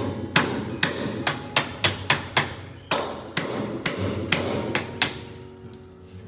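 A quick run of sharp knocks, about three a second, that stops about five seconds in, over background music.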